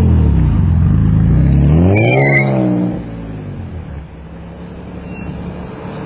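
Twin-turbocharged Nissan 350Z's VQ35DE V6 revving up to a peak with a brief high whistle about two seconds in, then dropping off about three seconds in to a quieter, steady run.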